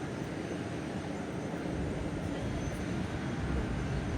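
Airbus A321's jet engines at taxi power: a steady rumble with a faint high whine, the low rumble growing stronger about a second and a half in.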